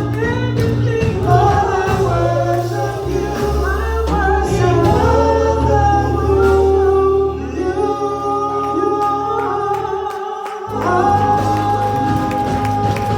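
Gospel singing with instrumental backing: a sung melody over sustained bass notes, with the bass dropping out briefly about ten seconds in.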